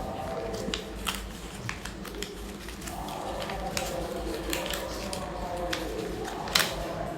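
A sheet of paper being folded and creased by hand, with scattered crisp crackles and taps as the folds are pressed; the sharpest snap comes near the end.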